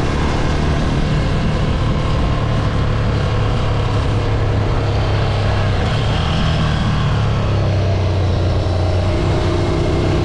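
Ducati Scrambler 803's air-cooled L-twin engine running at steady revs while the bike is ridden.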